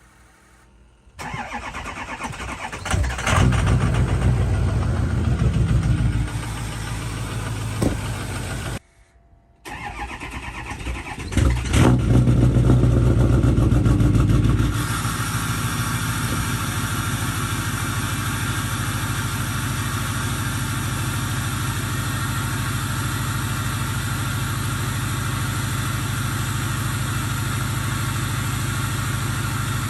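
Ford 6.0 Power Stroke V8 turbodiesel cold-starting about a second in and running loudly, with a brief break in the sound around nine seconds. It comes back louder, then settles into a steady, even idle about fifteen seconds in.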